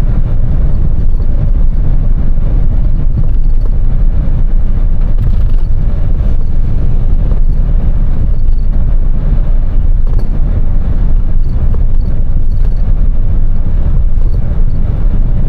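Semi truck's engine and road noise heard from inside the cab while driving: a loud, steady, deep drone.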